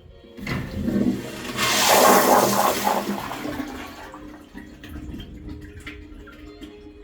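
Daelim Dobidos DC-1103G toilet flushing: water starts to rush about half a second in, is loudest around two seconds in, then dies down into a quieter lingering wash.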